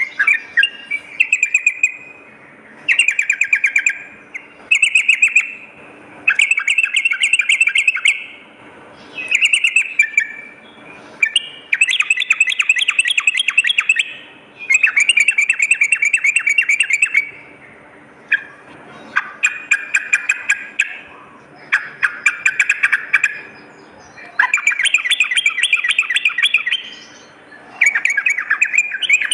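Yellow-vented bulbul (trucukan) singing: a run of loud, bubbly, rapidly warbled phrases, each a second or two long, repeated again and again with short pauses between.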